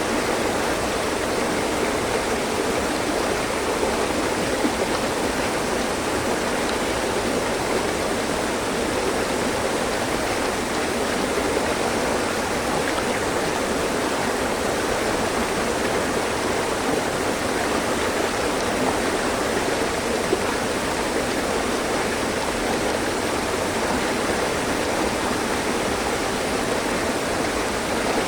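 Mountain stream flowing over rocks, a steady, even rush and babble of water.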